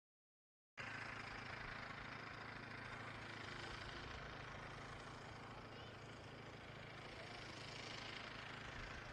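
A motor running steadily: a low, even hum under a hiss, starting abruptly just under a second in after dead silence.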